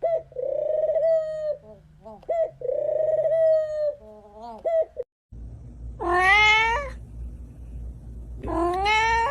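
Cat meowing: two drawn-out calls with short chirpy ones between, then, after an abrupt cut, two rising meows.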